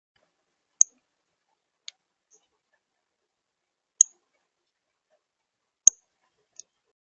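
A few sharp, very short, high clicks: three loud ones spaced a couple of seconds apart, with two fainter ones between them.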